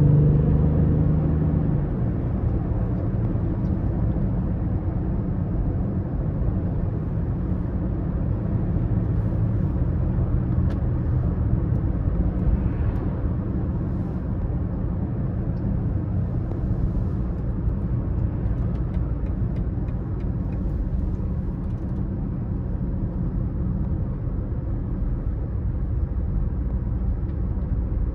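BMW X5 30d's three-litre straight-six turbodiesel driving along with road noise, a steady low rumble. The engine note stands out for the first two seconds, then eases into an even cruise.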